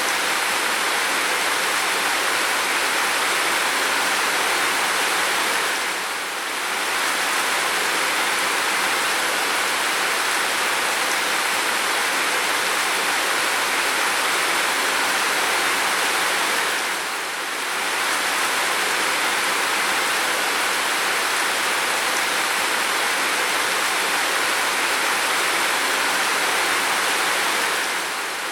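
Heavy rain falling steadily as an even, unbroken hiss, easing briefly about every eleven seconds.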